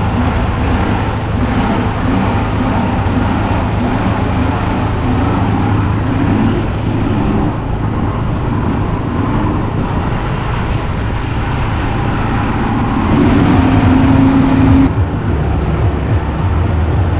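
Glass-bottom boat's engines running steadily at reduced speed, a low, constant drone with a wavering note above it; about thirteen seconds in the note steadies into a held tone for a couple of seconds.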